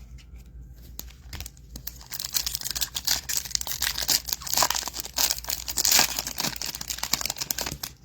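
A foil trading-card pack wrapper crinkling and tearing as it is opened by hand. It starts about two seconds in and is loudest in the middle.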